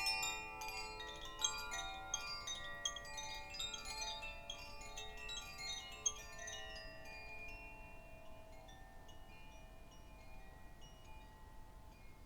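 Chimes ringing in a cascade of overlapping bright metallic notes, dense at first, then thinning out about halfway through and slowly dying away.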